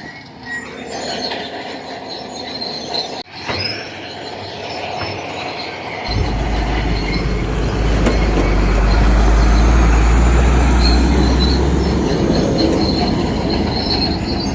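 Crawler bulldozer at work, its steel tracks squealing as they run. About six seconds in, a heavy low engine rumble comes in and grows louder.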